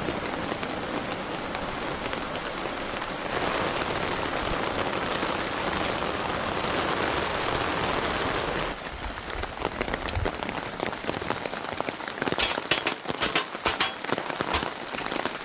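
Heavy rain falling in a steady rush. About nine seconds in it drops to a quieter patter, and near the end sharp, scattered drips and taps stand out above it.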